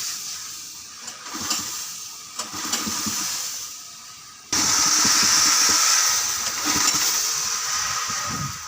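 Kubota L3608 tractor's diesel engine running with a rapid low pulsing, under a rushing noise that jumps suddenly louder about four and a half seconds in and then slowly eases.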